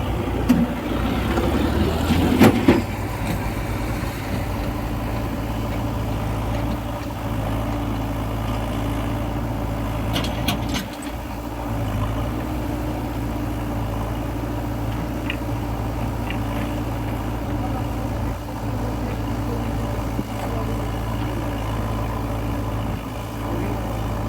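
Heavy diesel machinery running steadily with a low engine drone, and a few sharp knocks about two seconds in and again about ten seconds in.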